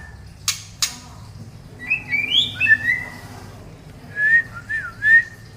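White-rumped shama (murai batu) singing short whistled phrases that slide up and down, with two sharp clicks about half a second in.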